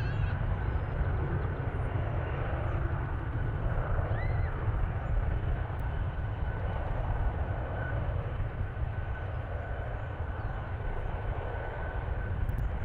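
Jet airliner engines running in a steady rumble with a thin, steady high whine.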